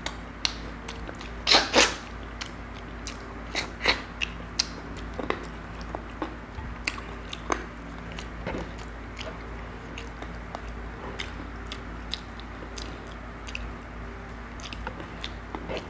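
Close-up eating sounds: a man chewing tilapia and rice eaten by hand, with many sharp wet lip smacks and mouth clicks. The loudest cluster comes about one and a half seconds in.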